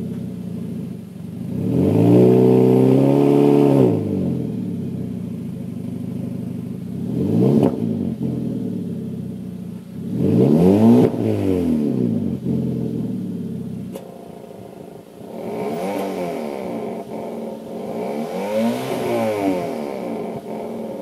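Hyundai Avante MD car engine revved about five times through a factory-style valved variable exhaust with an open intake and mid-pipe: the pitch climbs and falls back with each rev, one held briefly near the start and one a quick blip.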